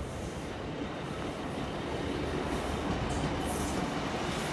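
A pair of Class 153 diesel multiple units approaches, its rail and engine noise growing steadily louder, with a few short high-pitched sounds about three seconds in.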